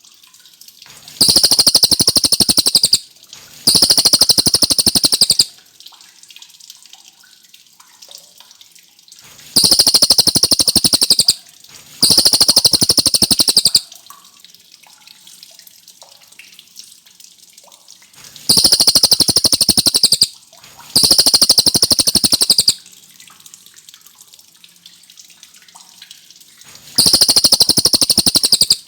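Rufous-tailed shama (cililin) singing loud, fast rolling trills, each bout about two seconds long. The bouts come in pairs with a short gap between them, a pair about every eight seconds, and a new bout starts near the end.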